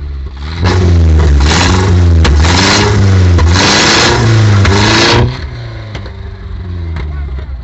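K24 engine in a Nissan revved hard again and again for about four and a half seconds, its pitch climbing and falling with each blip, then dropping back to a lumpy idle with a few sharp exhaust pops.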